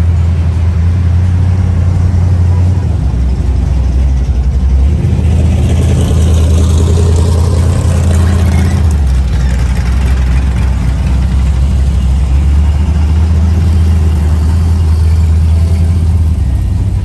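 Car engine running close by with a low, steady exhaust rumble, and a swell of higher noise about six to nine seconds in.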